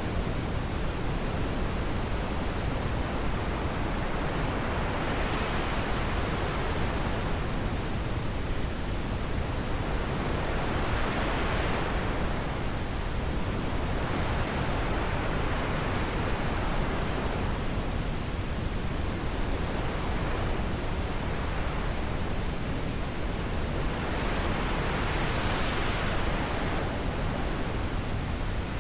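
Wind blowing as a steady rush of noise, with gusts that swell and fade slowly every several seconds.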